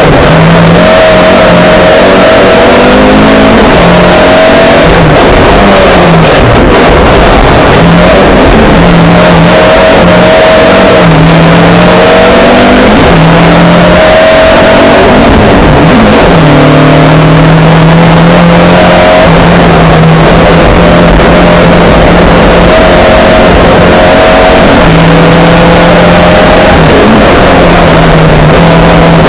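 Mk2 Ford Escort rally car's engine revving hard and very loud, its pitch climbing and dropping back again and again as it is driven through the gears and lifts.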